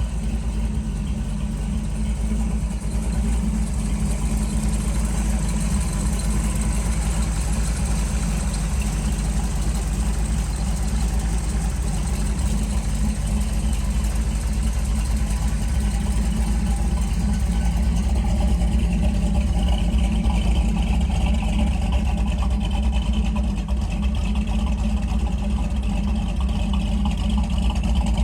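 1930 Ford Roadster hiboy street rod's engine running steadily, with no revving.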